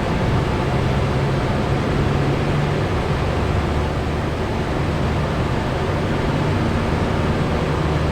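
Cessna 172's piston engine and propeller droning steadily with airflow noise, heard from inside the cabin, during a low-power descent.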